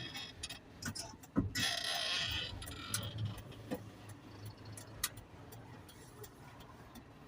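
Garbage truck running with a low engine hum, scattered light ticks and clicks, and a brief hiss about a second and a half in.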